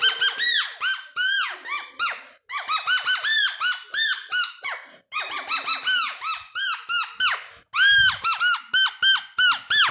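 Homemade ice-cream-stick noisemaker sounding a rapid string of short squeaky notes, each swooping up and back down in pitch, in runs with brief pauses between them.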